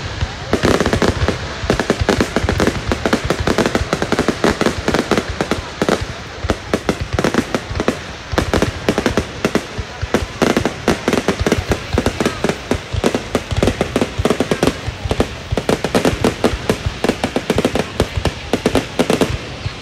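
Aerial fireworks going off in quick succession: a dense run of sharp bangs and crackles with no let-up.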